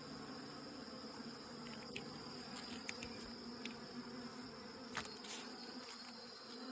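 Honeybees buzzing steadily in an open hive, a low even hum, with a few faint clicks.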